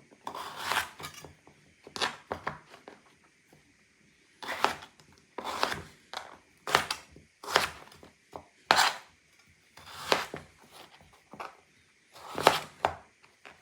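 A knife slicing through a raw radish, about a dozen separate cuts spaced irregularly with short pauses between them.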